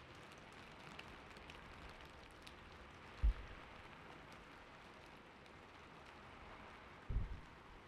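Gentle steady rain as a background sound, with a few faint ticks early on and two soft low thumps, one about three seconds in and one near the end.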